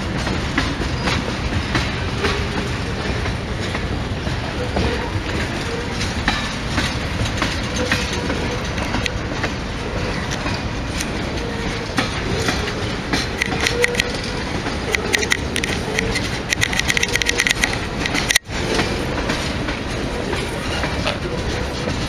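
A train rolling past with a steady rumble and the clickety-clack of its wheels over rail joints. About three quarters of the way through comes a stretch of rapid clicking with a high ringing note, and then the sound cuts out for an instant.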